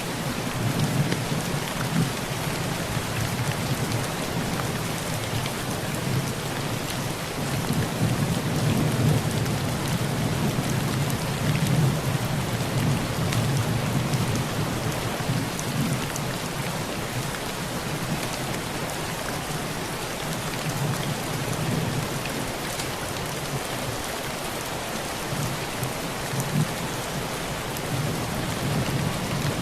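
Heavy rain falling on a tin roof: a dense, steady patter with occasional sharp drop ticks. Under it, low rolling thunder swells and fades, strongest about a third of the way in and again near the end.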